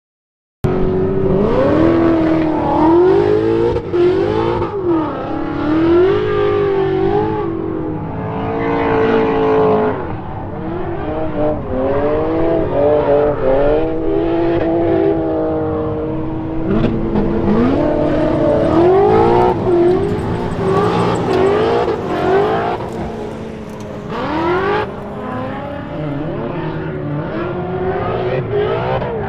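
S197 Ford Mustang drift car's engine revving hard, its pitch rising and falling over and over as the throttle is worked through the drift, over a steady noise of tyres and wind. The sound cuts in suddenly about half a second in.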